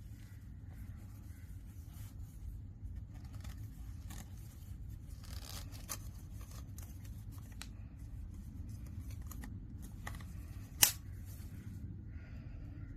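Small handling sounds: scattered light clicks and scrapes over a steady low rumble, with one sharp click about eleven seconds in.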